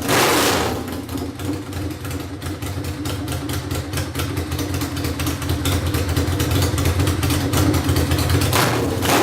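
Ducati 996 V-twin engine running with its final exhaust pipes removed. It gives a short throttle blip at the start, idles with rapid even firing pulses, then rises with another blip near the end.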